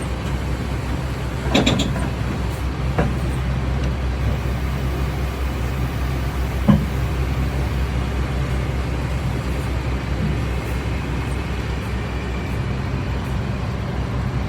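Excavator's diesel engine running steadily, with a few short knocks, the loudest about a second and a half in.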